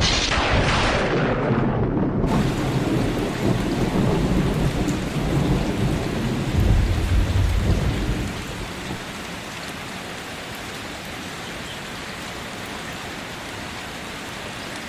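A thunderclap that rumbles on for several seconds and eases off about eight seconds in, over steady heavy rain.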